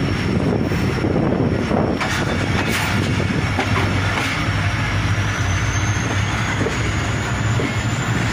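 Passenger train running on the track, heard from an open coach doorway: a steady rumble of wheels on rails with occasional clatter and a thin high tone that rises slightly about halfway through.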